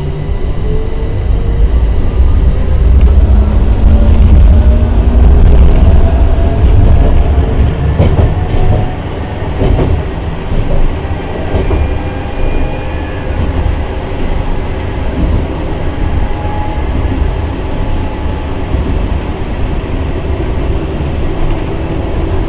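Electric tram running on rails with a strong low rumble from the wheels. Its traction motors whine, rising in pitch as it accelerates over the first several seconds, and there are a few sharp clicks in the middle, likely rail joints or points.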